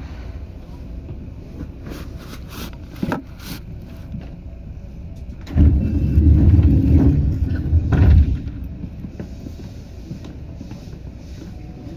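Seibu 2000 series electric commuter train running, heard from inside the car: a steady low rumble with a few sharp clicks, then a much louder, heavier rumble lasting about two and a half seconds near the middle.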